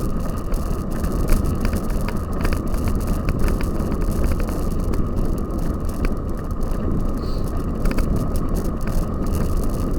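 Cyclocross bike being ridden: steady low rumble of wind and tyres on the microphone, with frequent short rattles and clicks from the bike jolting over rough ground.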